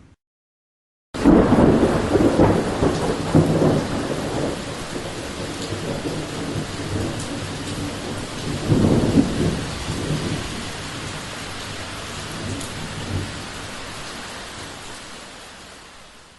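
Thunderstorm: after about a second of silence a thunderclap breaks in suddenly and rolls on over steady rain, with a second loud rumble about halfway through, then the sound fades out near the end.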